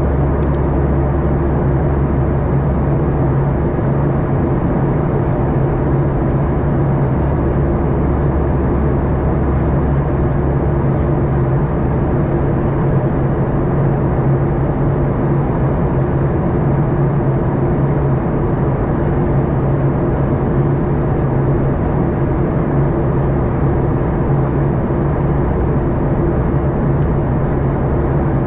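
Steady cabin drone inside a Boeing 737-800 in flight: its CFM56-7B turbofan engines and the airflow past the fuselage, heard from a window seat as a loud even rush with a low hum underneath.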